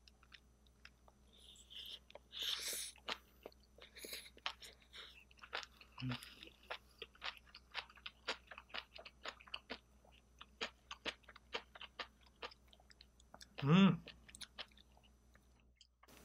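A person chewing a mouthful of rice with spicy steamed seafood and bean sprouts: wet, crunchy chews in quick succession. There is a brief hissing sound about two and a half seconds in and a short voiced 'mm' about fourteen seconds in, the loudest sound.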